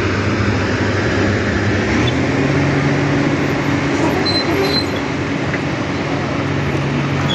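Heavy diesel engine running steadily, its pitch stepping up about two seconds in and holding there.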